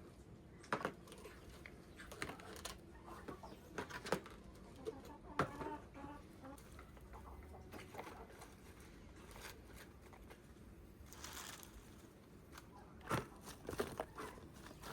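Chickens, with faint clucks among scattered light taps and knocks, and a brief rustle about eleven seconds in.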